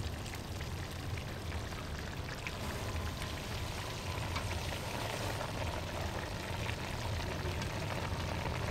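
Braised pork (kho) with bamboo shoots simmering in its sauce in the pot: a steady bubbling hiss with scattered small pops.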